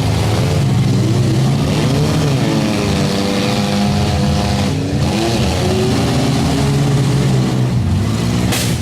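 Engines of several demolition-derby minivans, pickups and SUVs revving hard, their pitches rising and falling over one another. There is a short sharp crack near the end.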